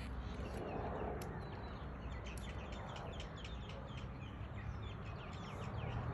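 Birds calling: a quick run of short, high chirps from about two seconds in to near the end, over a low steady background rumble.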